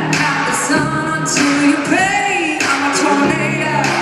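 Live country band performance with sung vocals in harmony and sharp rhythmic percussion hits, heard through the reverberation of a large arena.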